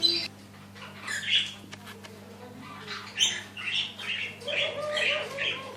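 Caged exhibition birds squawking: scattered short calls, then a quick run of short squawks from about three seconds in, over a steady low electrical hum.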